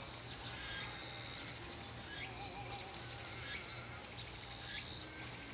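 Cicadas singing: a steady high buzzing with louder phrases that swell and then cut off sharply, about four times, with a few faint lower chirps underneath.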